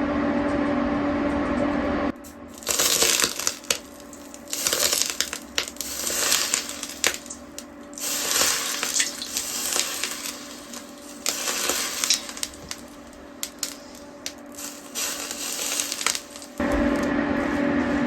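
Crackly, crunching and rustling handling noises with many sharp clicks, coming in irregular bursts. They stand between stretches of a steady machine hum with a held tone, which cuts off about two seconds in and comes back near the end.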